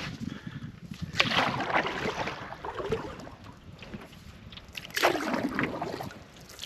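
Canoe paddle strokes in river water: two swishing strokes, one about a second in and one near the end, each a surge of splashing that fades off.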